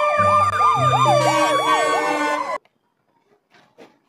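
Ambulance siren in a fast up-and-down yelp, with a steady note held under it and deeper blasts coming and going; it cuts off suddenly about two and a half seconds in.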